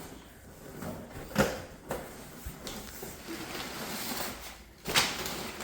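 A cardboard shipping box being opened and its packing handled: uneven rustling and scraping, with a sharp rip or knock about a second and a half in and a louder one near the end.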